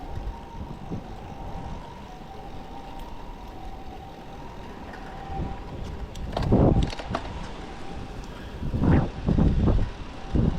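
Typhoon wind buffeting the microphone: a steady low rumble that swells in strong gusts about six and a half seconds in and again around nine to ten seconds in.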